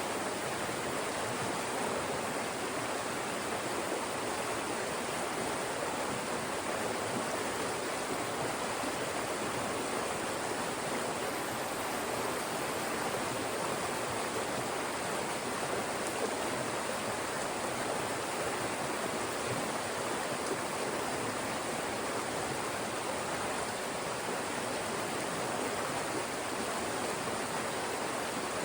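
Fast-moving stream rushing steadily through narrow channels between rocks.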